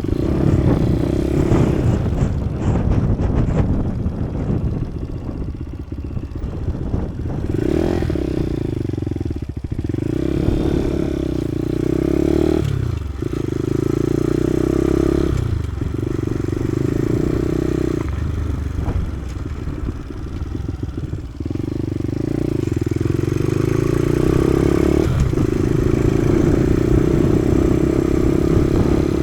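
Kawasaki KSR110's small single-cylinder four-stroke engine running under way. Its pitch climbs and then drops abruptly several times as the rider pulls through the gears. The first several seconds are rougher and clattery.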